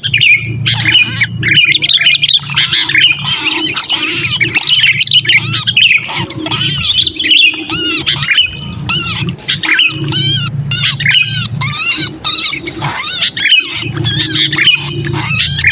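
Sooty-headed bulbuls giving harsh, rapid distress calls, a dense overlapping chatter of short arched notes: the 'trapped bird' call used as a lure to draw other bulbuls down. A low hum comes and goes underneath.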